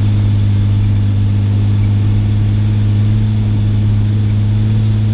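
Off-road truck's engine running steadily while the truck climbs a snowy forest road, heard as a constant low drone that keeps the same pitch throughout.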